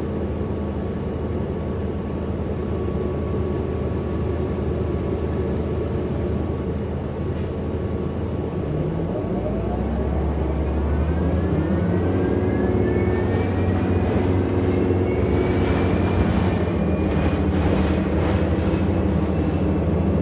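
Interior of a 2008 Orion NG hybrid-electric bus: a steady drivetrain hum with a held high tone. About nine seconds in the low hum deepens, and then an electric motor whine rises in pitch and levels off as the bus speeds up; this is the weird motor sound of this bus.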